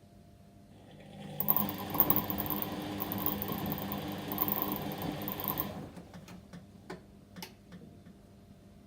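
Whirlpool washing machine turning its drum on a delicate wash cycle: the motor and drum run steadily for about four seconds, then stop, followed by a few light clicks and knocks.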